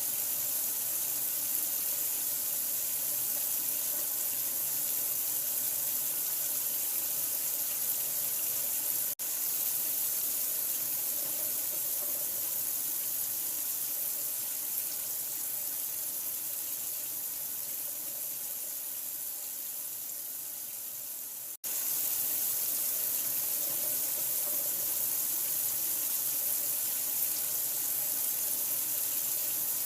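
Continuous running water, a steady hiss like a tap running into a sink. The sound cuts out for an instant about nine seconds in and again about twenty-two seconds in.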